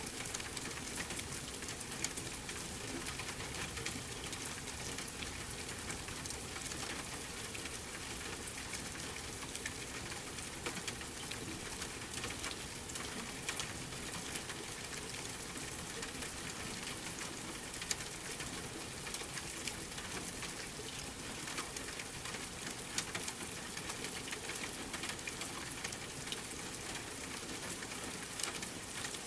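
Steady rain hiss mixed with the scattered sharp crackles of a wood fire burning in a fireplace.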